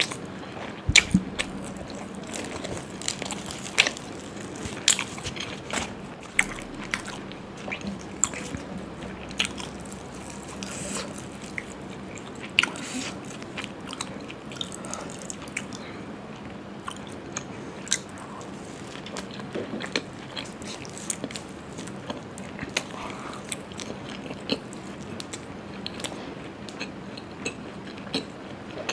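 Close-miked eating: a person chewing and biting through a meal of puri with mutton curry and chilli chicken, with many short, irregular mouth clicks.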